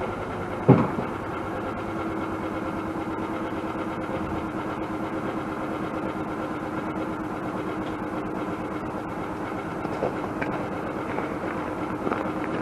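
Engine of a plow vehicle running steadily at a low, even idle, with one sharp knock just under a second in.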